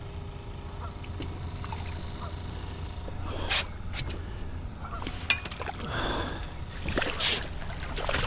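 Hooked striped bass splashing and thrashing at the water's surface beside a boat as it is brought in and netted, in several short bursts. A sharp knock about five seconds in is the loudest sound, over a low steady hum.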